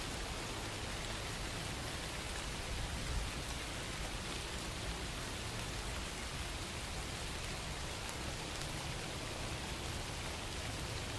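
Steady rain falling, a continuous even patter without a break.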